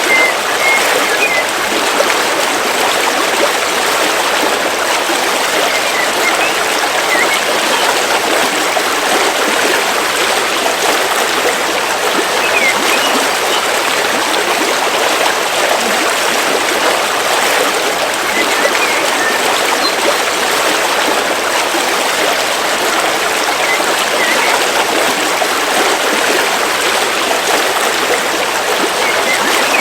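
River water flowing steadily over rocks, a constant rushing and babbling. A few short, high bird chirps sound now and then.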